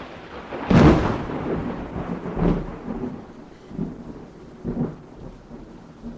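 Thunderstorm: a loud thunderclap under a second in, followed by rolling rumbles that come and go and die away, with rain falling.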